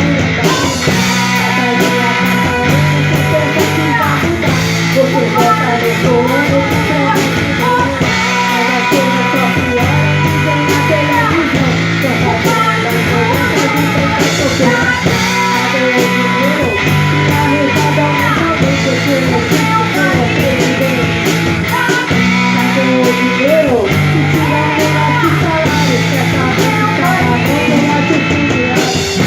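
Rock band playing live: guitar, a bass line moving note to note, and drums with cymbals, under a singer's voice.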